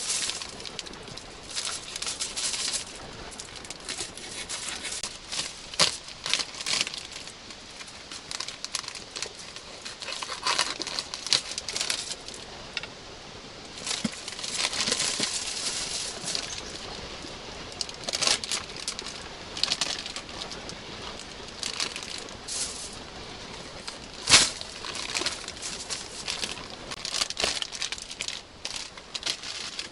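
Wood campfire crackling, with scattered sharp pops; the loudest come about 6 and 24 seconds in. Stretches of aluminium foil crinkling come and go as sausages are wrapped and handled over the fire.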